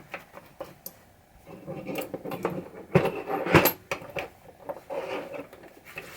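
Metal pinball drop target parts being handled and wiped with a rag: rubbing with small clicks and clinks, and a few louder knocks about three seconds in.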